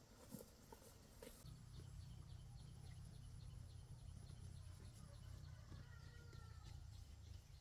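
Near silence: faint outdoor ambience with a low rumble, light evenly spaced ticking and a short bird chirp about six seconds in.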